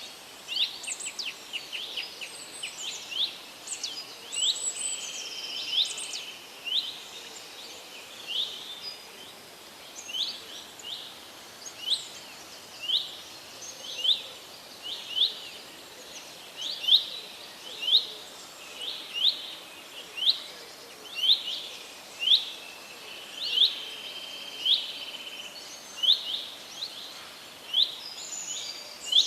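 Birds calling: one bird repeats a short, sharply rising chirp about once a second, and other birds chirp over it in the first few seconds.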